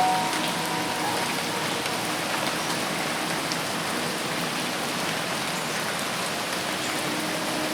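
Dense, steady rain falling on forest foliage, an even hiss of many drops. A thin whistled tone fades out over the first second or so.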